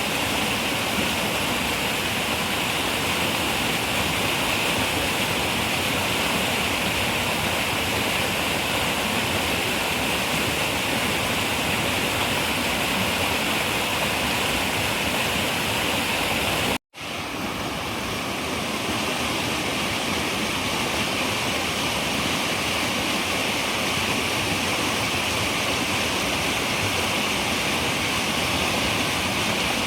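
Running river water rushing steadily. About 17 seconds in, the sound cuts out completely for an instant and then fades back in over a second or two, an edit seam in the recording.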